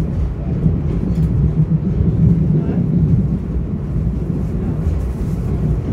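Steady low rumble of a Metro-North commuter train running along the track, heard from inside the passenger car.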